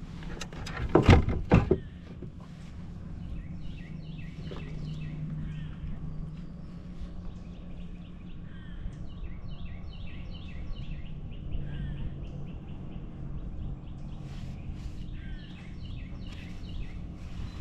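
Small birds chirping and singing in quick runs of short repeated notes over a steady low hum. A brief clatter of loud knocks about a second in is the loudest sound.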